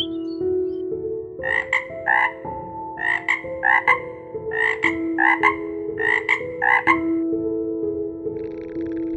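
A frog croaking: about a dozen short rasping calls, mostly in pairs, over sustained background tones that step from note to note.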